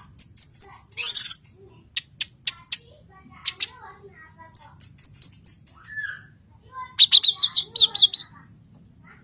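Blue-masked leafbird (cucak kinoy) singing: groups of short, quickly repeated high chirps mixed with sharp clicking notes, and a fast trill about seven seconds in.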